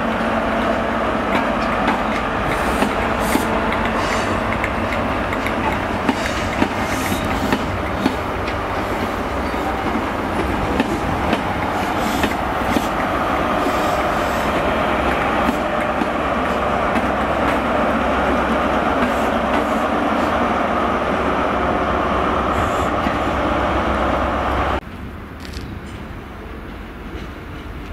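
A GWR High Speed Train with Class 43 diesel power cars passing, a steady train noise with sharp wheel clicks over the rail joints. The noise falls away abruptly about 25 seconds in.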